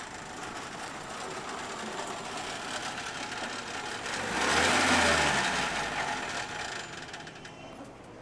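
Car engine running as the car pulls up and sits with the engine on, with a steady rattly hum and a low rumble; the noise swells louder for about a second around the middle, then eases off.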